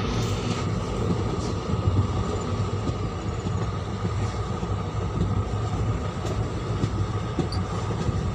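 Hassan–Solapur Superfast Express running along the track after leaving a station: a steady rumble with a few faint clicks.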